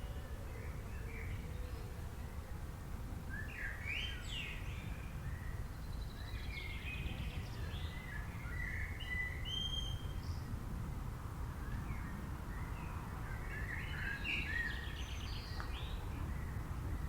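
Wild birds chirping and trilling in scattered bursts, several calls overlapping, over a steady low rumble of outdoor background noise.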